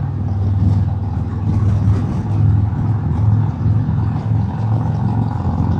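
Harley-Davidson Road King Special's Milwaukee-Eight V-twin running steadily at highway cruising speed, a low pulsing rumble, with wind noise over the helmet microphone.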